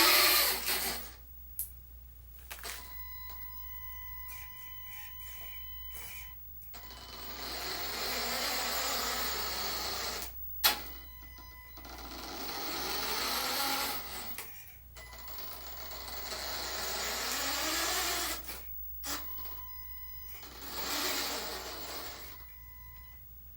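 Huina RC dump truck converted to hydraulics, its small electric motors and hydraulic pump whirring in about five bursts of a few seconds each, pitch rising and falling as it works a sideways dump. A sharp click comes about ten seconds in.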